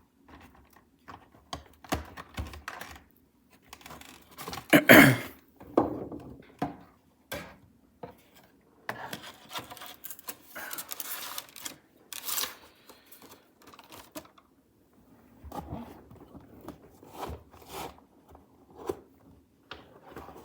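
Model train packaging being handled: scattered clicks, taps and rustles of plastic and cardboard, with a louder rustle about five seconds in.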